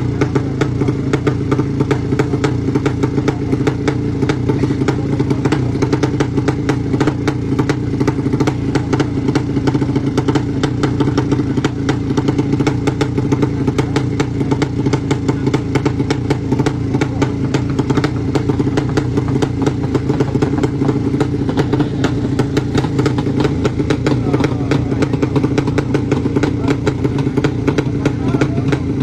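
Racing motorcycle's horizontal-cylinder engine running at a steady speed, its rapid firing giving a dense crackle.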